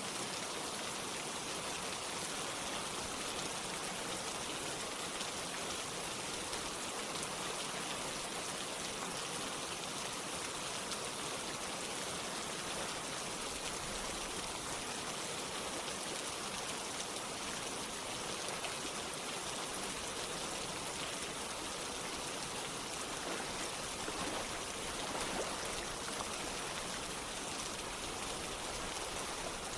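Steady rain falling together with running water, an even hiss of drops and flowing water.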